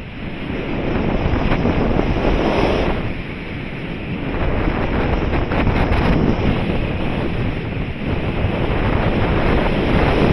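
Wind rushing over the microphone in flight under a paraglider, a loud rushing noise that swells and eases every few seconds.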